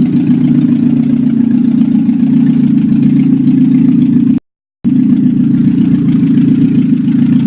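ZMZ-406 16-valve inline-four engine in a VAZ 2107, idling steadily at an even pitch. The sound drops out completely for about half a second midway.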